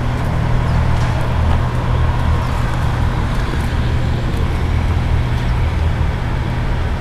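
Steady low rumble of vehicle engines and road traffic, an unbroken hum with a wash of road noise over it.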